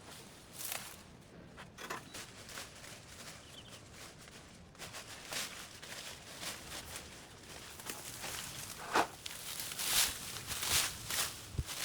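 Irregular footsteps and rustling in brush, sparse at first and coming thicker and louder over the second half.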